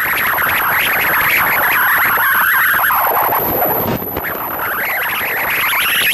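Motorcycle engine on a race track: its note falls as the rider comes off the throttle through a corner, dips briefly about four seconds in, then rises steadily as the throttle opens and the bike accelerates out of the turn.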